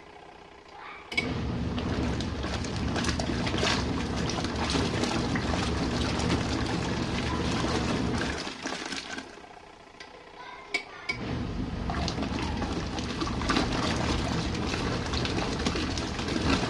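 Portable RV washing machine agitating its load in the rinse: motor hum with water sloshing and clicking runs about seven seconds, pauses for a couple of seconds, then starts again, the stop-and-reverse pattern of the agitator.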